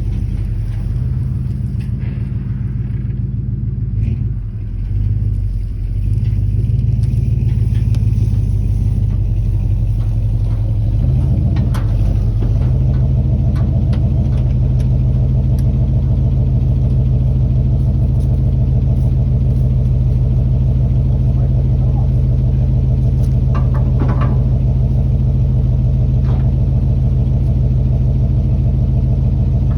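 1968 Chevrolet K20 pickup's engine running at low speed. Its speed shifts about four to six seconds in and again around twelve seconds in, then holds steady.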